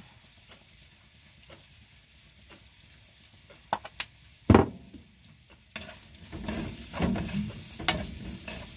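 Garlic, ginger and onion frying in margarine in a nonstick wok, a faint steady sizzle, broken about halfway by a few sharp clicks and one loud knock. From about six seconds in a plastic slotted spatula stirs and scrapes in the wok, and the sizzle grows louder.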